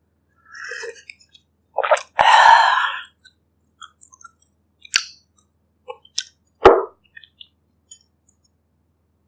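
Close-miked eating of bak kut teh pork ribs and broth: mouth noises, with a loud noisy burst about two seconds in, then scattered sharp clicks and smacks, the loudest a little before seven seconds.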